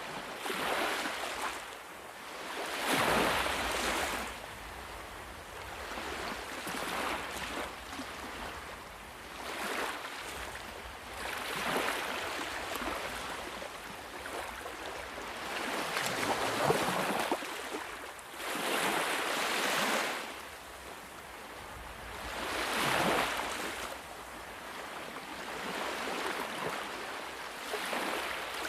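Ocean waves breaking and washing on a shore, each surge of surf swelling and falling away every few seconds.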